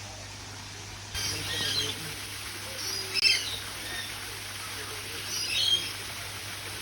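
Several birds chirping, a string of short, high calls with the loudest a little past three seconds in, over a steady low hum.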